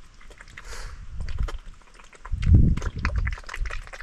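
Pig eating its feed: irregular short smacking and chomping clicks, with a low rumble about two and a half seconds in.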